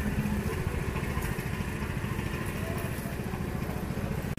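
A small motorcycle engine running steadily with a fast, low pulsing.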